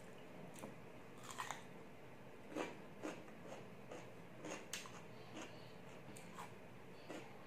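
Crunching and chewing of raw cucumber: irregular crisp crunches as the pieces are bitten and chewed, the sharpest about two and a half seconds in.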